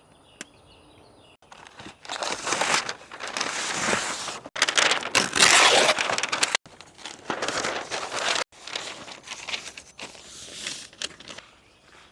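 Crinkling and rustling of wrap being handled around a smoked brisket, in several stretches that cut off abruptly.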